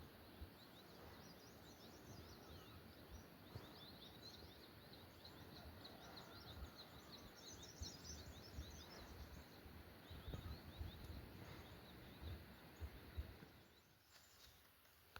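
Faint ambience of many small birds chirping over a low rumble, the chirps coming thick and fast, then thinning out and the rumble dropping away about fourteen seconds in.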